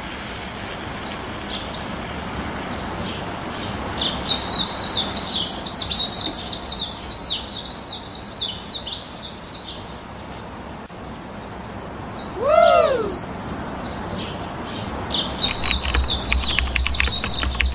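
Small birds chirping, many short high chirps in quick runs, over a steady hiss. About twelve seconds in there is one longer call that rises and falls. Near the end there are a few clicks and low thumps.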